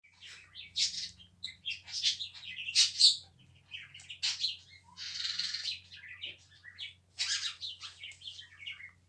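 A pet bird chirping and calling in quick, high bursts, with two longer harsh, raspy calls about five and seven seconds in.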